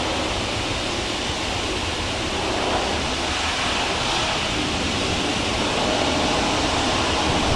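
Steady rushing background noise, like a fan or wind, with no knocks or taps.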